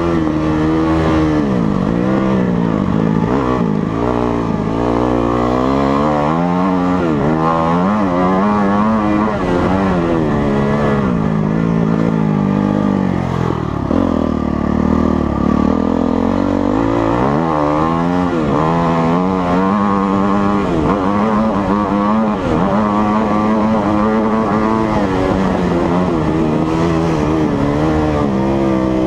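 Motocross dirt bike engine revving up and dropping back over and over as the bike is ridden hard, the pitch climbing and falling every second or few, with a lower, slower stretch about halfway through.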